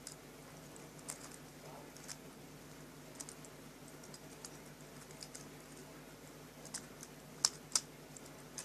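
Scattered light clicks and taps at irregular intervals, the two loudest close together about seven and a half seconds in, over a faint steady hum.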